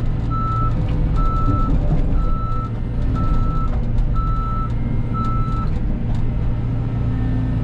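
Cat 313 excavator's diesel engine running steadily, with an electronic beeper sounding about once a second in six short, even beeps that stop about two seconds before the end.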